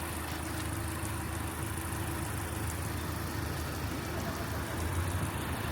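Mazda 6 MPS's 2.3-litre turbocharged four-cylinder engine idling steadily, a low even hum.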